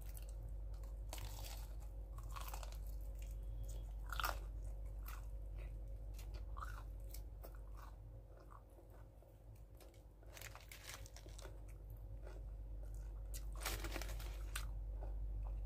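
Close-up crunching as crispy breaded fried chicken is bitten and chewed, in irregular clusters of crackly crunches. The loudest crunches come about four seconds in and again near the end, with quieter chewing in the middle, over a steady low hum.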